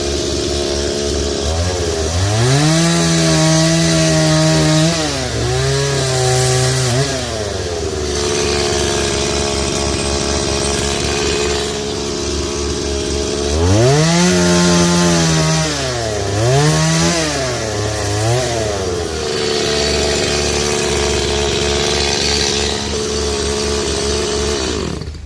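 Two-stroke chainsaw running, revved up twice for cuts through thick branches, each rev lasting about five seconds. Between the cuts it drops back to steady lower-speed running, and the sound cuts off suddenly just before the end.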